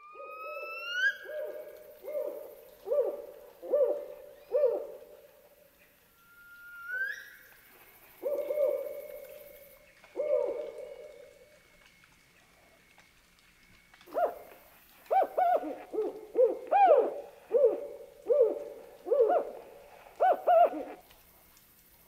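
Owl hooting: groups of hoots, with a louder, quicker run of them in the second half. Two rising whistled calls are heard near the start and about seven seconds in.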